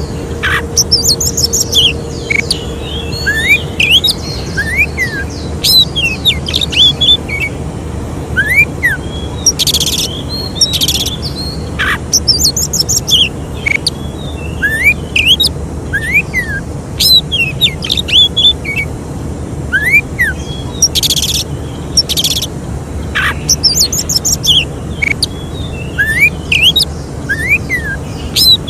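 Oriental magpie-robin (kacer) song: loud chirps, whistled up-and-down notes and harsh rasping bursts, in a sequence that repeats about every eleven seconds, over a steady low hum.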